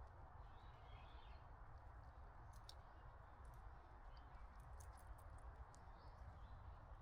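Near silence: faint outdoor ambience with a few soft bird chirps and scattered faint clicks.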